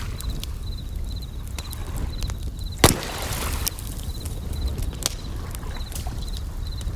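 Bell crickets chirping in short trills repeated about twice a second, over a crackling campfire with scattered snaps and one loud pop about three seconds in, and a low wash of waves.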